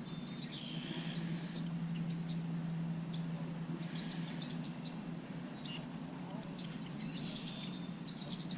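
Quiet open-air ambience with a few faint bird chirps and a steady low hum underneath.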